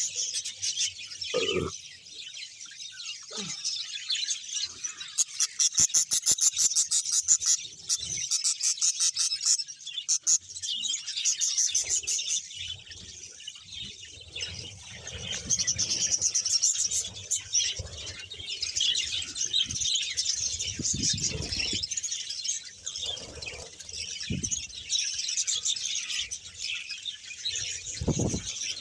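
A colony of budgerigars chattering and warbling together in a dense, continuous high twitter, with a run of fast, loud clicks from about five to ten seconds in.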